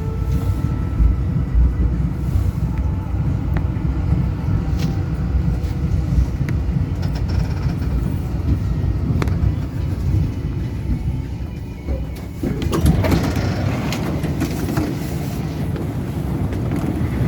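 A tram running along its line, with a steady low rumble and occasional sharp clicks, as from the wheels over rail joints. A louder rush of noise comes in about two-thirds of the way through.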